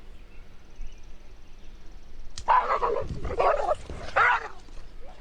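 A dog barking three times in quick succession about halfway in, after a sharp click.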